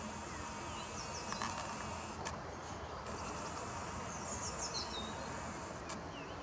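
Small birds chirping with short, quick, high calls, about a second in and again around four to five seconds in, over a steady high-pitched whine that cuts out for about a second near the middle. A few faint clicks.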